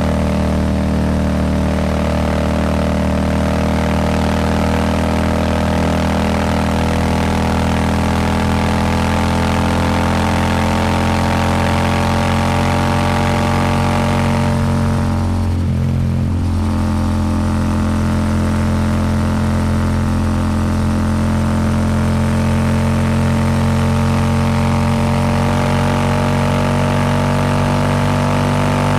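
Royal Enfield Super Meteor 650's 648 cc parallel-twin engine running through a Rhino Racing slip-on exhaust, pulling under throttle with its pitch slowly rising and a brief dip a little past halfway, with wind rushing over the microphone.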